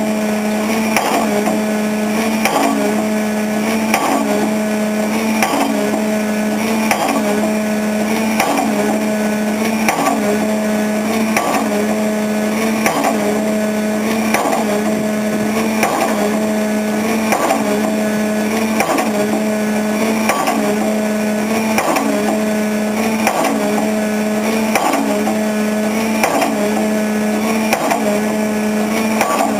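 Pile driver hammering a concrete pile, about one blow a second, over the steady drone of the rig's engine.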